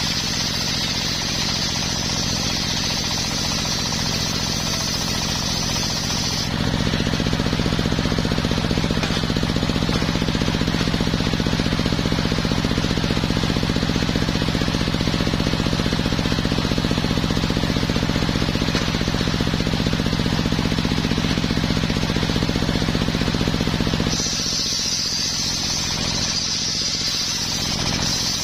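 Homemade engine-driven circular sawmill running on coconut wood, with the engine drone steady throughout. A high whine sounds at first, then from about six seconds in the sound turns louder and lower, until near the end the whine returns.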